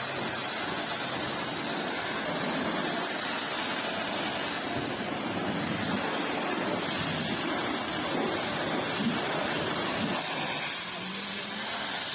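Pressure washer spraying, a steady hiss of water spray.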